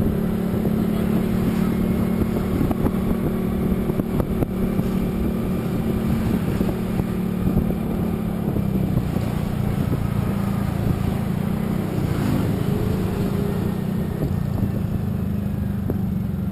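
A vehicle engine running steadily while travelling on the road, with road and wind noise. The engine note eases a little about halfway through.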